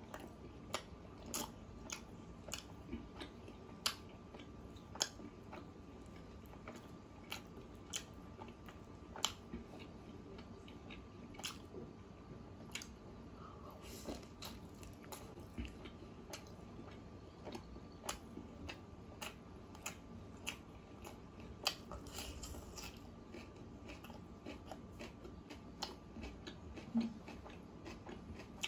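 Eating ASMR: chewing chicken curry and rice eaten by hand, with frequent sharp, wet mouth clicks and smacks at irregular intervals.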